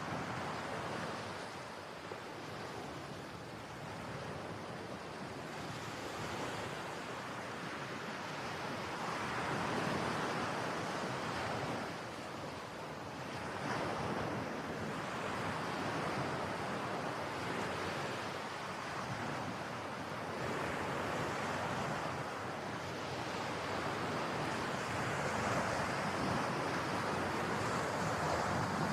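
Steady rushing noise that swells and eases every few seconds, growing a little louder near the end.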